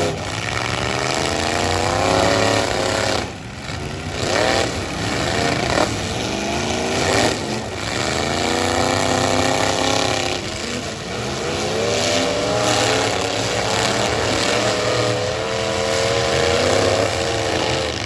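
Full-size stock pickup truck engines revving hard in a demolition derby. They rise in pitch again and again as the trucks accelerate, with a short drop in level about three seconds in.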